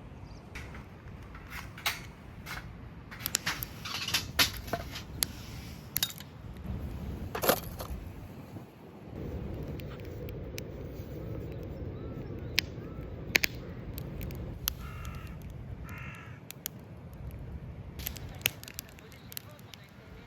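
A crow cawing twice, two short calls about fifteen seconds in, over scattered sharp clicks and crackles and a steady low rumble.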